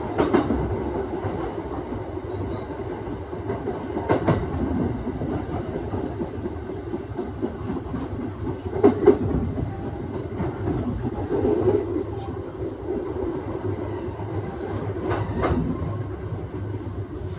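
Aoimori Railway 701-series electric train running along the line, a steady rumble of wheels on rail heard from inside the front car. Occasional clacks sound over rail joints, about four times, one a double clack near the middle.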